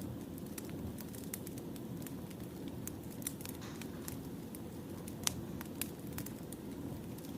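Wood fire crackling: scattered sharp pops and snaps of burning logs over a steady low rumble, with one louder pop about five seconds in.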